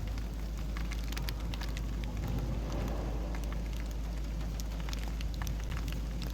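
Steady rain falling, with many individual drops clicking sharply on a nearby surface over a constant low rumble.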